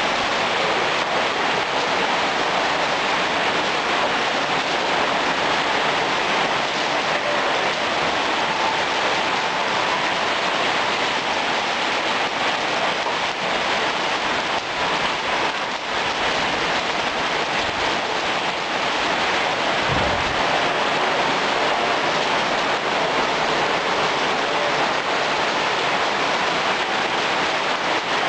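Heavy rain pouring steadily, with one brief low thump about two-thirds of the way through.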